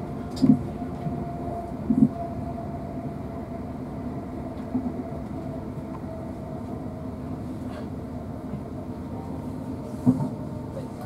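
Interior running noise of a South Western Railway Class 450 electric multiple unit in motion: a steady low rumble with a faint steady tone over it. A few short louder sounds stand out, twice near the start and once near the end.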